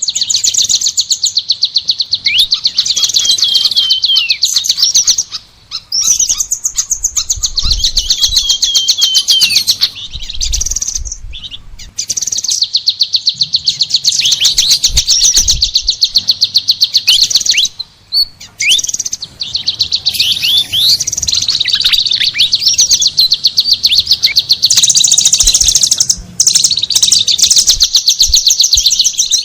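Songbirds singing: a high, very fast trill of rapidly repeated notes with sliding whistled notes mixed in, breaking off briefly every few seconds.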